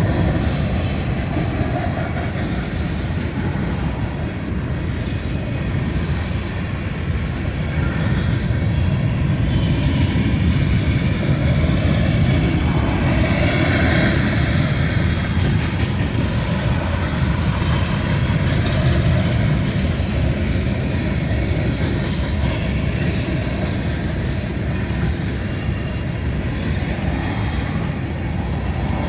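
Freight train rolling past, a steady heavy rumble that holds all the way through.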